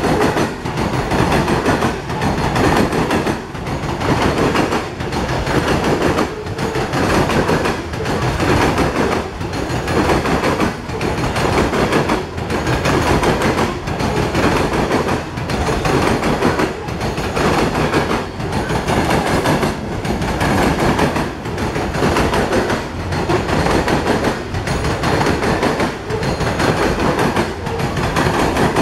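Hopper cars of a Norfolk Southern coal train rolling past close by: a steady rumble and rattle of steel wheels on rail that swells and dips about once a second as each car's wheel sets go by.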